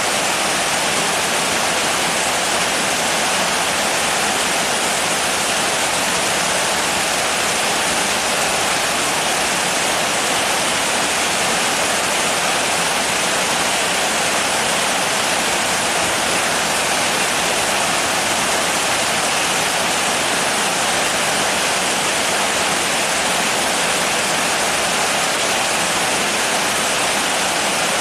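Steady rain falling: a continuous, even hiss with no breaks or separate drops standing out.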